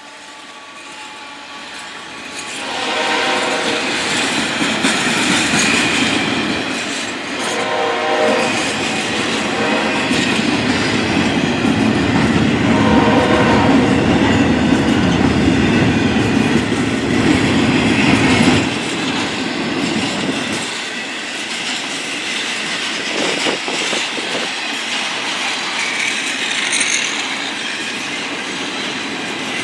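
Diesel passenger train's locomotive horn sounding three chords, the first about two seconds long and the later two shorter, as the train comes by with a heavy rumble and wheels clacking over the rails. The rumble eases about two-thirds through while the clacking of the passing cars goes on.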